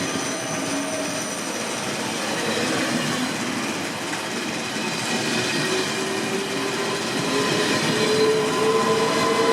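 A train running on the rails, with a steady whine that rises slowly in pitch and grows a little louder over the second half.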